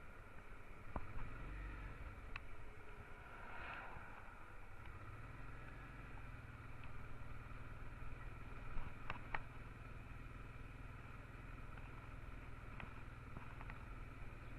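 Honda Transalp XL650's V-twin engine running as a low steady drone that grows stronger about five seconds in, with a few sharp clicks over it.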